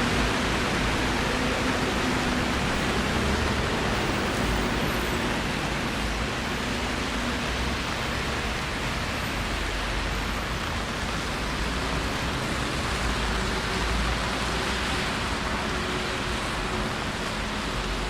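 Steady hiss of rain falling on a city street, even throughout with no distinct events.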